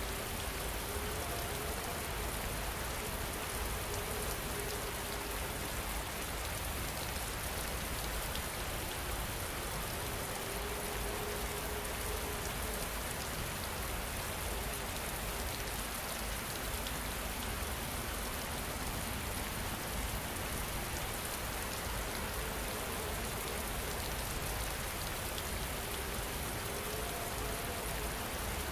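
Steady rain falling, an even hiss of drops with no letup. A faint soft tone rises and fades a few times beneath it.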